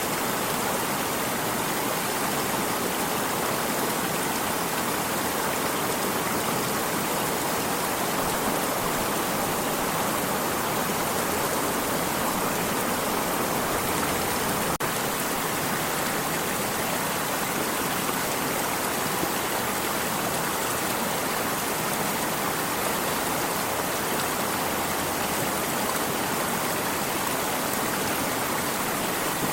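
Water of a stream rushing and splashing steadily, an even, unbroken wash of sound.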